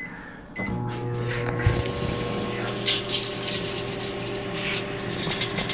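A keypad beep, then about half a second in a microwave oven starts running with a steady electrical hum and fan noise. Over it come scattered sharp crackles, loudest about three seconds in: a CD sparking and arcing inside the oven.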